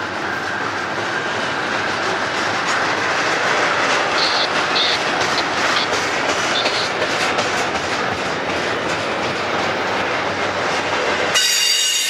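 Double-stack intermodal well cars rolling past on a 25 mph slow order: a steady rumble of steel wheels on rail, with clickety-clack from the wheels and short high-pitched squeals. A louder high squeal comes near the end.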